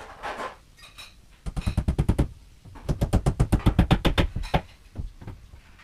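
Nails being hammered into bookcase panels: two quick runs of knocks, about a dozen a second, the first starting about a second and a half in and the second, longer, starting about three seconds in.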